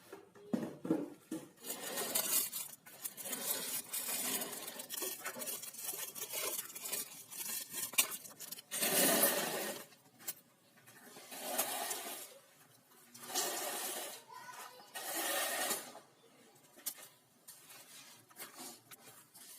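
Paint Zoom electric paint sprayer spraying wall paint in bursts: a hissing rush that starts and stops several times, each spray lasting one to a few seconds, with small clicks in the gaps.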